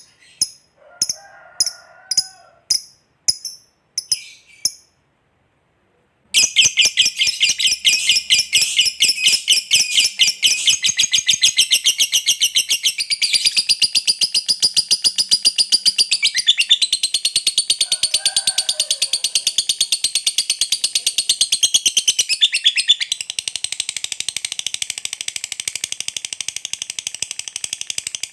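Lovebird 'ngekek': a long, very rapid high chattering trill that runs on unbroken for over twenty seconds, stepping in pitch a few times. Before it, after a short series of sharp single chirps, there is a brief silence.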